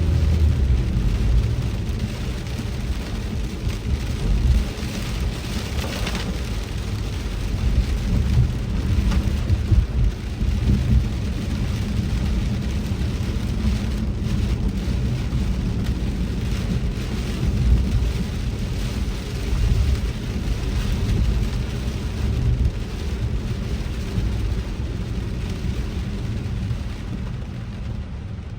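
Heavy rain on a moving car, a steady hiss over a low, uneven rumble of the car and road.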